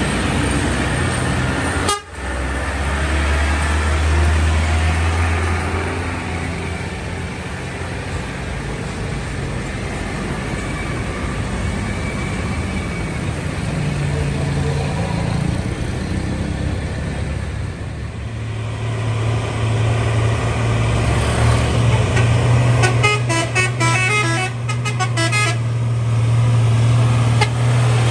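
Heavy diesel trucks running past with a steady low engine drone. Near the end comes a quick run of vehicle horn toots, several short pulses in a row.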